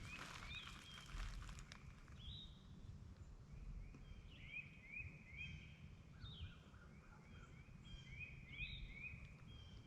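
Faint songbird song: short phrases of about three quick rising whistled notes, repeated every couple of seconds, over a low steady rumble. A brief rustle in the first two seconds.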